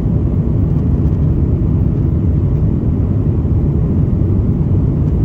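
Airbus A330-200 jet engines and airflow heard inside the passenger cabin in flight after takeoff: a steady, unchanging low rumble.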